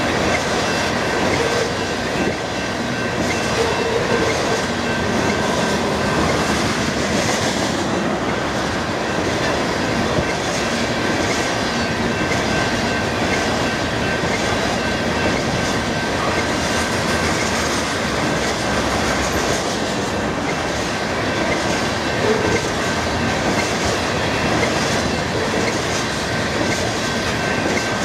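Railroad tank cars rolling past at speed: a steady rumble of steel wheels on rail with repeated clicks as the wheels cross rail joints. A thin steady high tone runs underneath.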